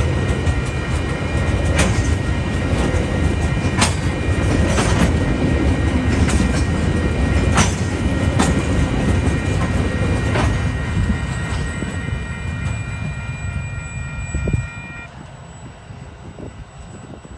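TasRail ballast train rolling past: a loud, steady low rumble with sharp, irregular clacks of wheels striking rail joints. The sound drops away suddenly near the end as the train clears.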